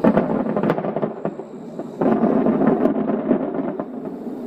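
Aerial fireworks shells bursting: a sudden loud boom at the start that rolls on with crackles, then a second run of booms about two seconds in, dying down near the end.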